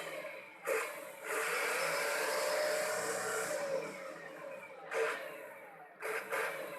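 Truck engine revved through a 'serigala' (wolf) aftermarket exhaust that howls: a short blip about a second in, a long held rev of about two and a half seconds with a rising-then-falling howling tone, then two more short blips near the end, each falling away afterwards.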